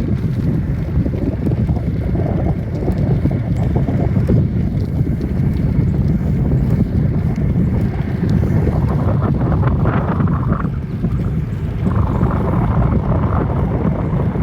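Wind buffeting a phone's microphone while cycling: a steady, loud low rumble. Fainter, higher noise comes and goes in the second half.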